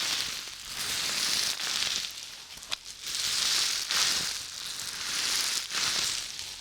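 Close-miked ASMR scratching and rustling in slow, even swells about once a second, with a few sharp clicks.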